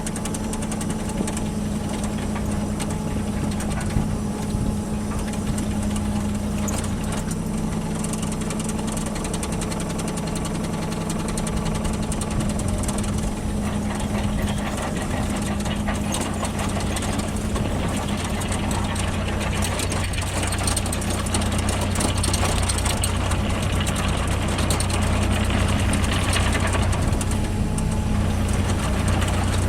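Engine of a compact work machine running steadily at an even speed, getting a little louder in the last third.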